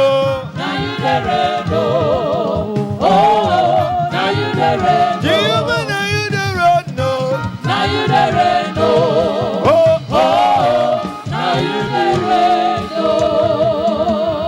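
Congregational gospel singing with a steady beat underneath, the voices sliding and wavering through long sung notes.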